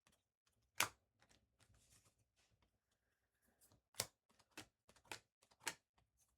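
Trading cards being handled and flipped through: a scatter of light clicks and snaps, a handful of them sharper than the rest.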